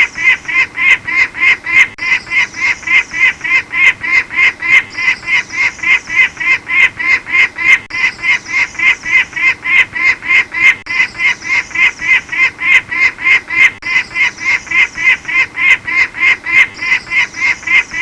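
Falcon calling: a fast, even series of repeated pitched notes, about five a second, kept up without a break.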